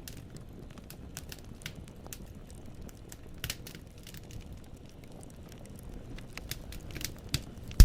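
Wood fire in a fireplace crackling: the logs snap in scattered small clicks over a low steady rumble of flame. A louder pop comes about three and a half seconds in, and a sharp, much louder pop just before the end.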